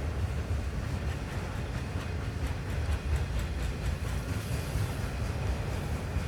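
Canadian Pacific train running past, a steady low rumble with faint light ticks in the middle.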